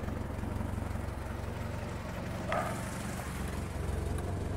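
1977 Chevrolet Opala's four-cylinder engine idling smoothly, a steady low hum, with a brief squeak about halfway through.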